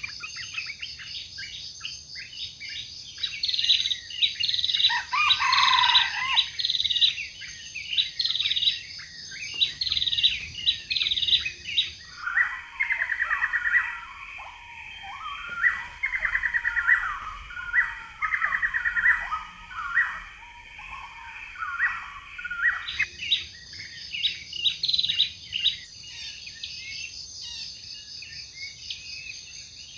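Forest birds chirping in quick, repeated trilling phrases, over a steady high insect drone.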